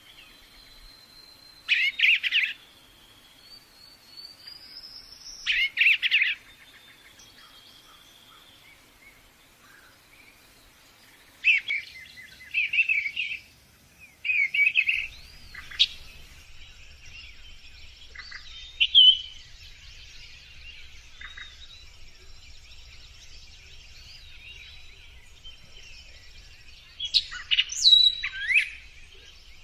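Songbirds singing: loud short bursts of rapid chirps every few seconds over a fainter background of thin whistles and trills from other birds.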